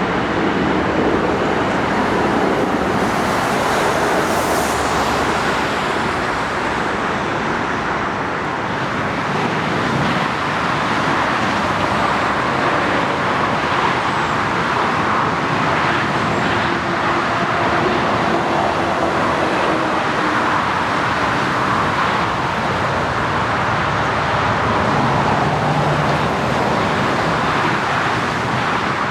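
Jet airliner engine noise: a loud, steady rush.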